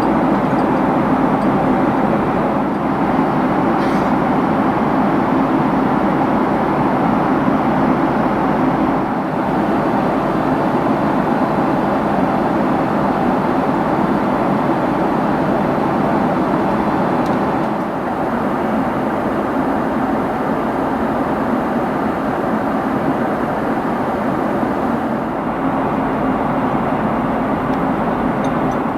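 Steady roar of a Boeing 767-300's cabin in flight: even engine and airflow noise heard from a passenger seat, holding level throughout.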